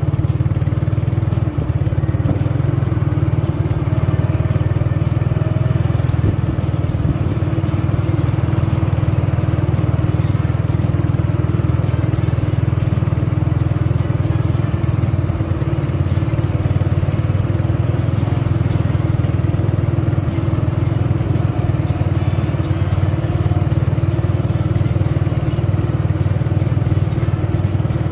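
Mitsubishi 190 PS truck's diesel engine running steadily under an 18-ton load.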